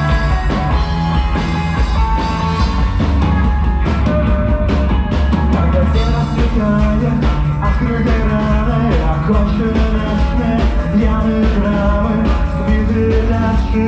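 A rock band playing live: an instrumental passage with a steady bass line and drum kit, before the vocals come in.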